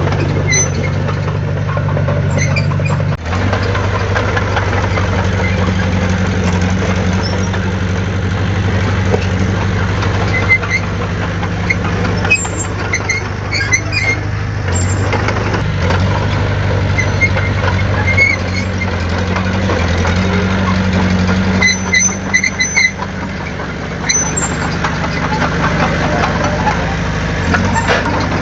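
Heavy earthmoving machine's diesel engine running steadily, its pitch shifting a few times as the load changes, with brief high squeals and clinks now and then.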